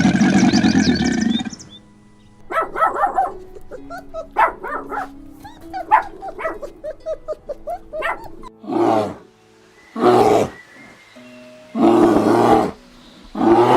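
Animal calls. A big cat's roar ends about two seconds in. A run of short yelping calls follows, then four louder calls of about half a second to a second each, spaced about a second and a half apart.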